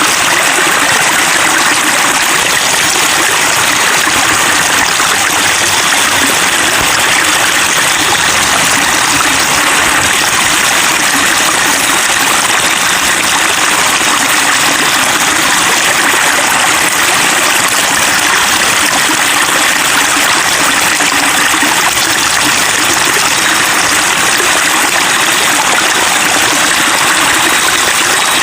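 Water running and splashing steadily, a continuous babbling of a stream or water flow with no breaks.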